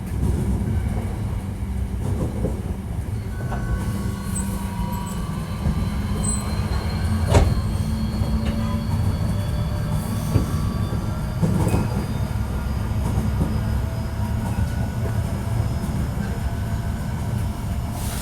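Hankyu 1300 series electric train running between stations, heard from inside the car: a steady rumble of wheels on rail with sharp knocks about seven, ten and eleven seconds in, under faint whining tones that slowly rise in pitch.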